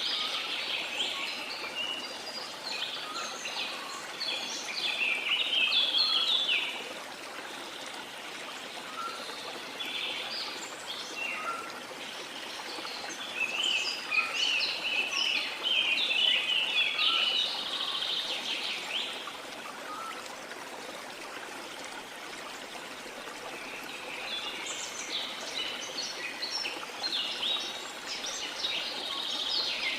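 Rain forest ambience: a river flowing steadily, with many birds chirping busily in three bouts, near the start, in the middle and near the end.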